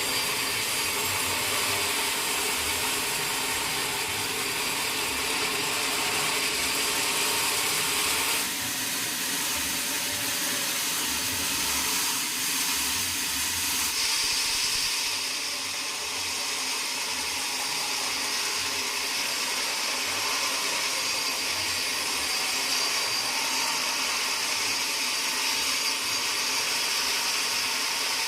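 Sawmill saw machinery running without a break, a steady mechanical whine and hiss that shifts in tone about eight seconds in and again around fifteen seconds.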